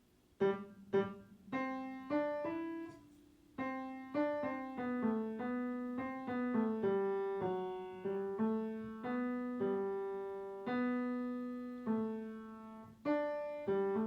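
Piano playing a slow, simple melody, one struck note after another, each ringing and fading. There is a brief pause about three seconds in.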